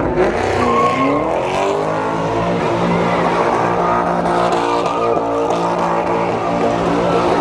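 Car engine revving hard, its pitch dipping just after the start and then holding steady at high revs while the tyres spin and squeal in a burnout.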